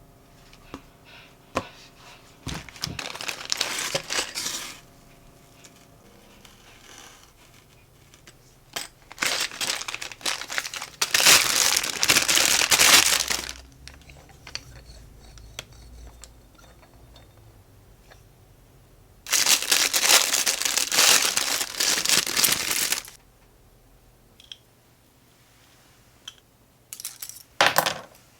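Plastic packaging being handled and crinkled in four bursts of a few seconds each, with quieter handling in between.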